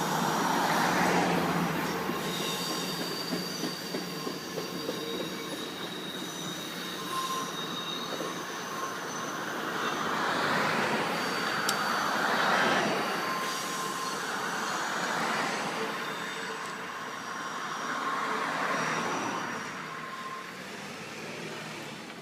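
Rocky Mountaineer passenger train rolling past. The rumble of the rail cars swells and eases several times, with brief thin squeals from the wheels on the rails, and it fades near the end.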